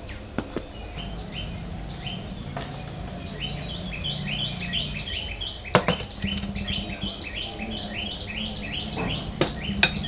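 A bird calls in a series of short downward chirps that quicken from about one a second to several a second, over a steady high-pitched insect drone. A few sharp clinks come from dishes and glasses being set down on a wooden tray, the loudest about six seconds in and twice more near the end.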